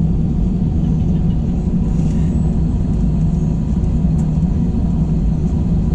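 Airbus A321 cabin noise from a window seat: a steady, even drone and low rumble of the jet engines and airframe, with a constant low hum.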